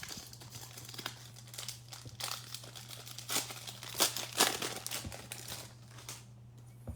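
Foil trading-card pack wrapper being crinkled and torn open by hand: irregular rustling and crackling, loudest a little after the middle, dying away about a second before the end.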